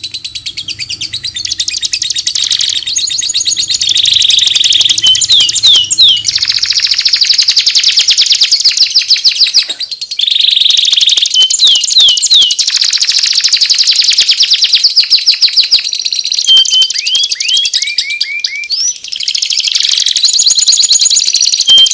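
Continuous songbird master song for training Oriental magpie-robins: long, fast chattering trills and rattles, broken by short upward-sliding whistles, with a brief break about ten seconds in.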